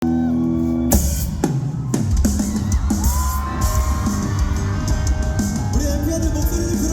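Live rock band playing, with a drum kit: a cymbal crash about a second in, then drums and sustained notes sliding in pitch over a steady beat.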